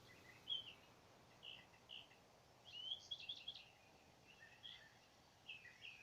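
Faint songbird chirps and short warbled phrases, coming in small clusters with pauses between them, the busiest burst about three seconds in.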